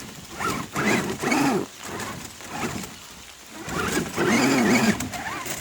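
Electric drive motors and gearing of Axial RC crawler trucks whining as they crawl, the pitch rising and falling in several spurts with the throttle.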